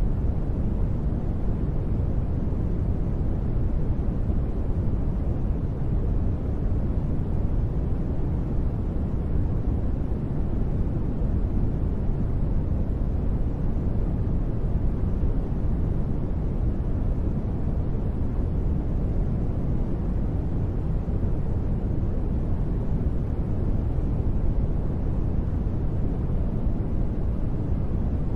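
Steady noise of the kind played as a sleep aid, deep in tone with little treble, unchanging throughout with no sudden sounds.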